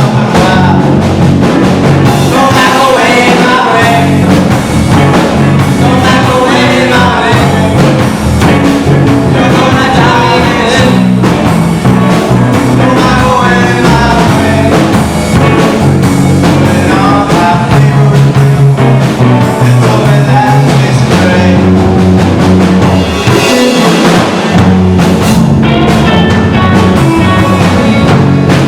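Rock song playing loud and steady, with a singer over a drum kit and bass.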